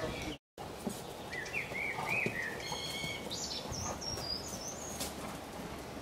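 Small birds singing, with repeated high chirps and warbling phrases over a steady outdoor background hiss. The sound drops out completely for an instant about half a second in.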